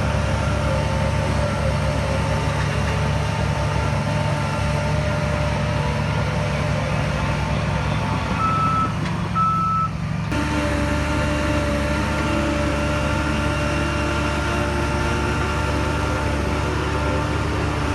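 Diesel engine of heavy earthmoving machinery running steadily, with a reversing alarm beeping twice a little before the middle. The engine sound changes abruptly about ten seconds in.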